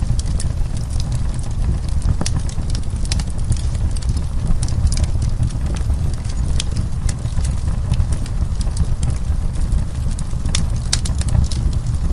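Wood fire crackling: irregular sharp pops and snaps from burning wood over a steady low rumble.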